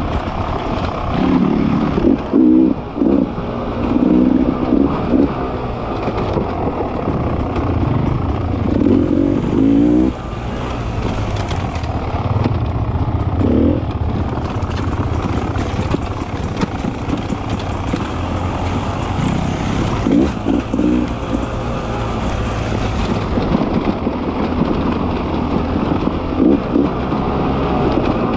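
Beta 300 RR two-stroke enduro motorcycle engine running under load as it is ridden, its pitch rising and falling with repeated short bursts of throttle.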